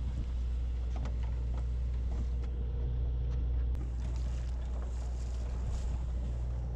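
Fishing boat's engine running steadily, a constant low hum, with a few faint clicks and knocks over it.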